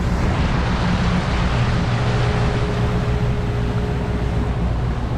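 Engine of a Sea Ray 175 Sport runabout running steadily under way, a low hum under a broad rush of wind and water.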